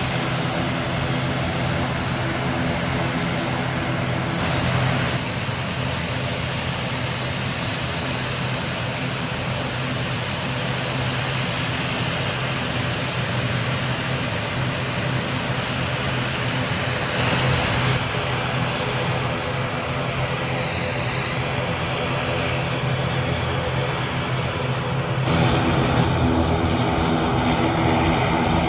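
Turboprop airliner engines and propellers running, a steady drone with held tones. The sound changes abruptly several times, about 5, 17 and 25 seconds in.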